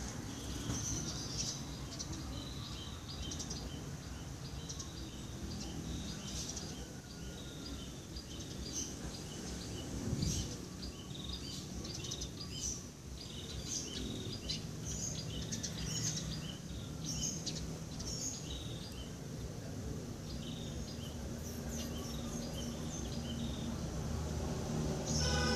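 Outdoor ambience of birds chirping in short, repeated calls, over a low steady rumble.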